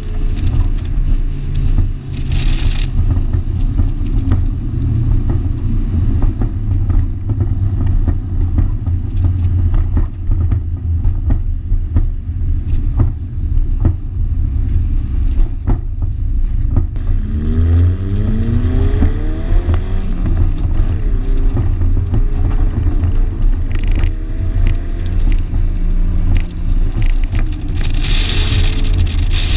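The turbocharged 2.2-litre four-cylinder of a 1987 Shelby GLHS, driven at speed on a race track under a heavy, steady low rumble. About two-thirds of the way through, the engine note climbs in pitch as the car accelerates.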